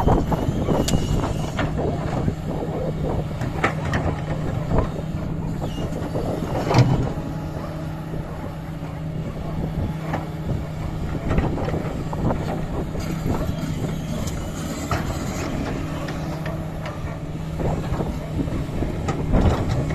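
Doosan DX225 excavator's diesel engine running steadily at a constant pitch, with scattered short knocks and clanks over it.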